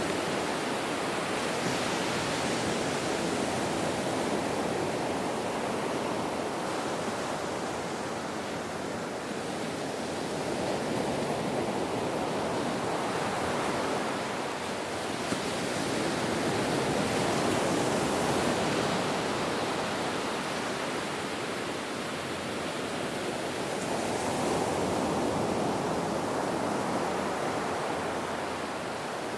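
Ocean waves washing in and out in a steady rush of surf, swelling and easing every several seconds.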